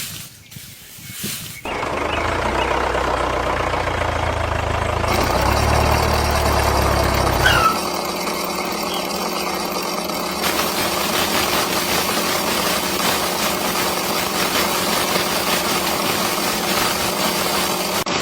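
Small motor of a homemade mini chaff cutter running steadily, starting suddenly near the beginning; its sound changes abruptly a few times, losing its deep rumble about halfway through.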